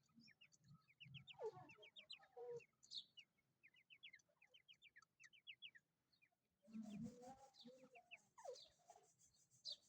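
Birds calling in quick runs of short, high chirps, with lower, falling calls now and then.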